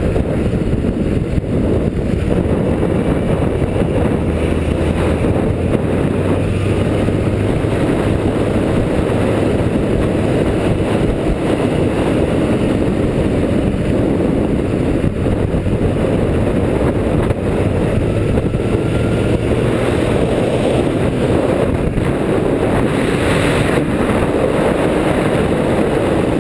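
Four-cylinder motorcycle with an aftermarket Motard 4-into-1 exhaust being ridden at a steady pace: a continuous engine and exhaust rumble with road and wind noise.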